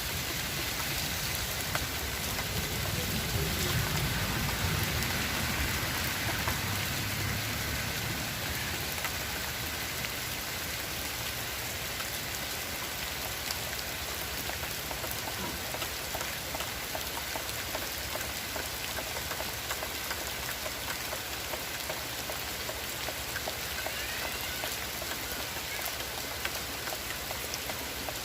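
Steady rain falling on surfaces, an even hiss dotted with many small drop ticks. A low rumble swells for a few seconds near the start.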